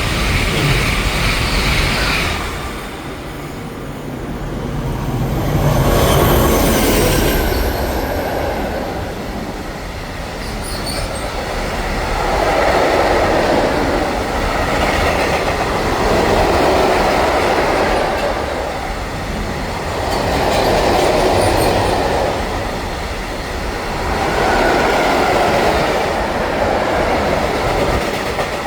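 A train passing on the track, its wheels and cars running with a sound that rises and falls about every four seconds.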